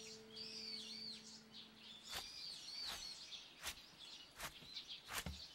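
Small birds chirping faintly in short repeated calls. A held musical note dies away in the first two seconds, and a few short sharp clicks follow about once a second after that.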